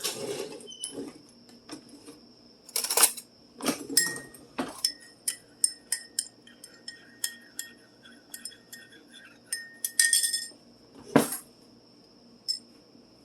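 A spoon stirring sweetened coffee in a mug, clinking against the sides over and over with a ringing tone. A few louder knocks come before and after the stirring, as things are set down on the counter.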